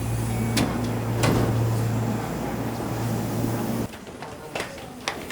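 A steady low machine hum with a few sharp clicks and knocks; the hum cuts off suddenly about four seconds in, leaving quieter background with more clicks.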